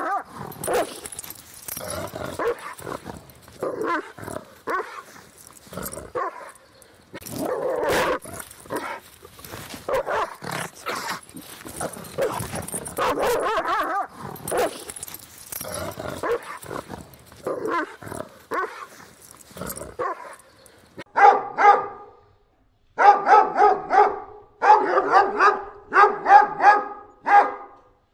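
Siberian husky barking again and again with overlapping calls. About 21 seconds in it changes to an Anatolian shepherd dog barking in quick clusters of clear, separate barks with short gaps between them.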